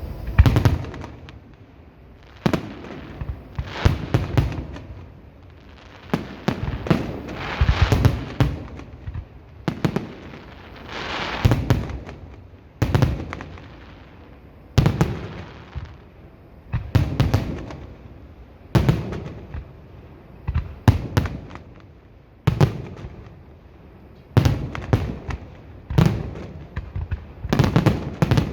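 Aerial fireworks display: shells bursting one after another, a boom every second or two, each trailing into crackle. The bursts come thicker near the end.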